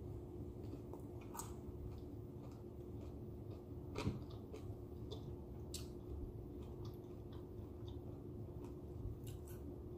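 Close-up chewing of a mouthful of crunchy hard taco shell with the lips closed. Small wet crunches and clicks come at uneven intervals, with one louder crunch about four seconds in.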